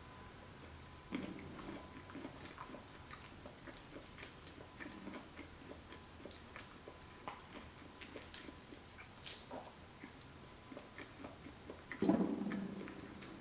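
Soft close-miked chewing and mouth sounds of someone eating shrimp cocktail: scattered small wet clicks and smacks, with a louder burst of chewing about twelve seconds in.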